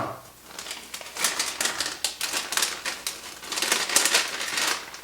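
Plastic crinkling and crackling as an MRE flameless ration heater pouch is opened and handled, a dense run of sharp crackles that starts with a snap and gets busier about a second in.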